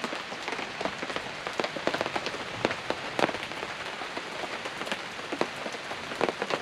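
Steady rain falling, with many separate heavy drops ticking irregularly on a surface close by.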